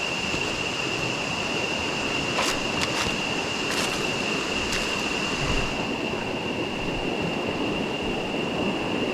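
Steady rush of flowing river water under a continuous high-pitched whine, with a few sharp clicks between about two and five seconds in.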